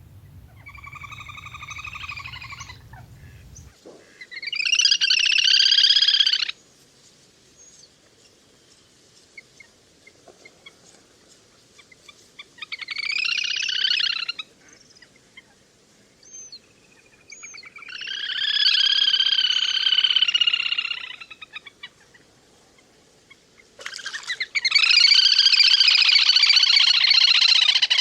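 Little grebe (le le hôi) calls: rapid whinnying trills in five bouts of two to four seconds each, separated by pauses. A faint low hum sits under the first bout.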